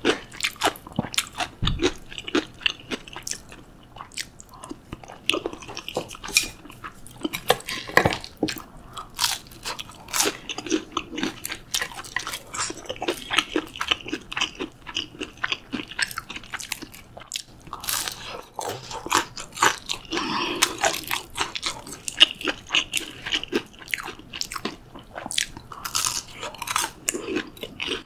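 Close-miked eating: biting and chewing crisp breaded pork cutlet dipped in curry, a dense run of crunches and crackles.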